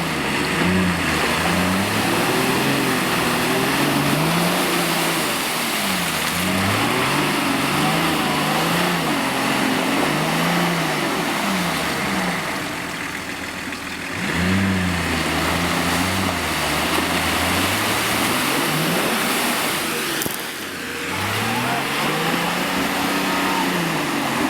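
Off-road vehicle engine revving up and down over and over, its pitch rising and falling every second or two, with a steady noisy rush underneath.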